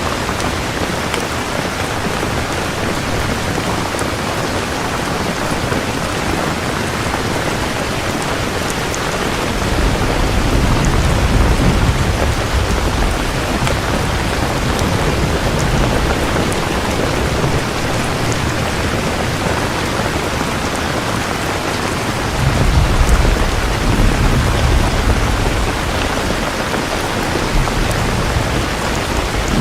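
Steady heavy rain with two long rolls of thunder rumbling low under it, one about a third of the way in and a louder one about three quarters through.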